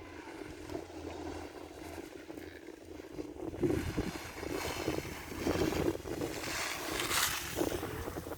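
Wind buffeting the microphone in irregular gusts, a rumbling noise with no clear tone.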